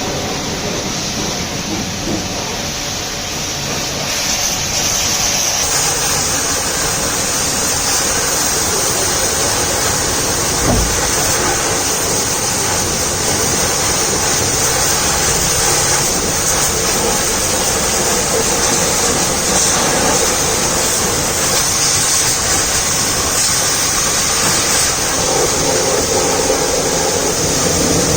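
High-pressure water spray washing a truck: a steady hiss of water jetting onto the body, getting louder and brighter about five seconds in, with one short thump partway through.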